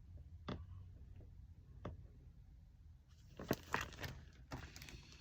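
Faint handling noises as cross-stitch pattern charts are shuffled: a few soft clicks, then a brief rustle of clicks and crackles about three seconds in.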